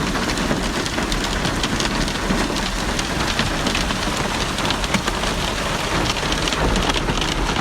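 Heavy downpour pelting a surface: a dense, steady hiss of rain with many sharp ticks of drops striking, over a steady low rumble.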